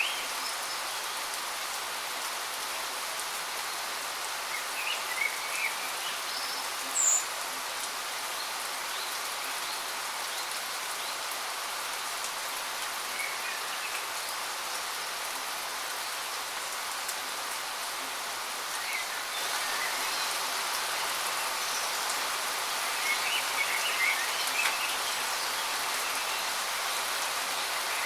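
Steady rush of a waterfall, growing slightly louder about two-thirds of the way through, with birds chirping briefly now and then: a short high chirp about seven seconds in is the loudest, and a cluster of chirps comes near the end.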